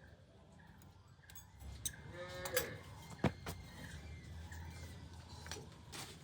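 A farm animal calls once, short and rising, about two and a half seconds in, amid scattered clicks and knocks; a single sharp knock just after it is the loudest sound.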